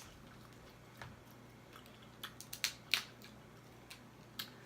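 Eating king crab legs: a few sharp clicks and cracks of shell and mouth sounds, one about a second in and a cluster about two to three seconds in.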